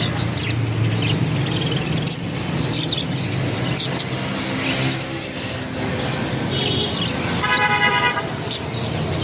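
Street traffic rumbling steadily, with a vehicle horn sounding for about a second near the end and small birds chirping now and then.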